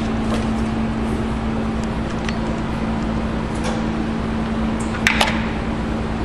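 Steady mechanical hum with a low rumble, broken by a few faint clicks and a sharper double click about five seconds in.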